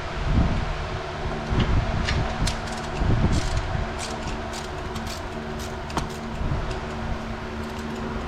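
A steady machine hum with a low rumble, and scattered short sharp clicks throughout.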